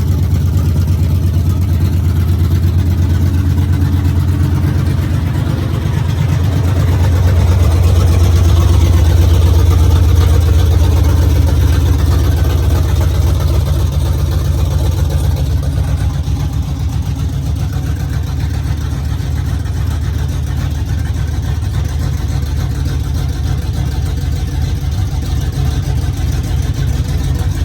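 6.2-litre V8 with a stage 2 camshaft idling on its first start-up. It runs steadily, grows a little louder about seven seconds in, and settles back down after a few seconds.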